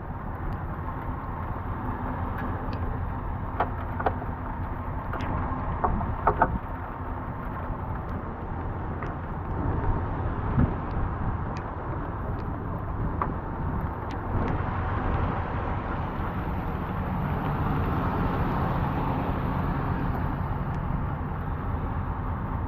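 A vehicle engine running steadily at idle, with scattered sharp clicks and knocks in the first half. A rushing noise swells over the last several seconds.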